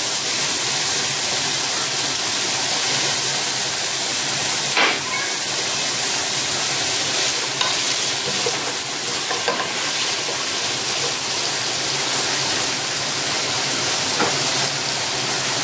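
Sliced onion, shallots and crushed ginger frying in hot coconut oil in a nonstick pot: a steady sizzle, with a few scrapes of a wooden spatula as it is stirred.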